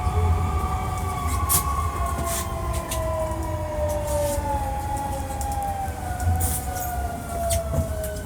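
Hankyu 1300 series train's Toyo IGBT inverter and traction motors whining over a low running rumble, their tones falling steadily in pitch as the train slows. This unit is known for its unusual inverter noise. Scattered sharp clicks from the wheels on the track come through.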